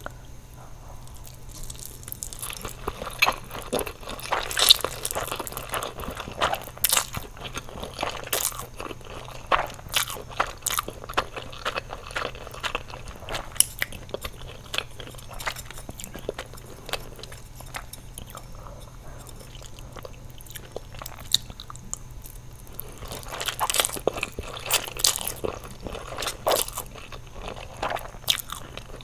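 Crunchy food being bitten and chewed close to the microphone: sharp crunching crackles in dense bursts, thinning out for several seconds in the middle, over a steady low hum.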